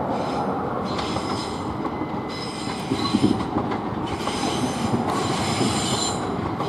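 Southeastern Class 375 electric multiple unit running past over the track, with a steady rumble and its wheels squealing in repeated high-pitched bursts. There are a few louder knocks about three seconds in.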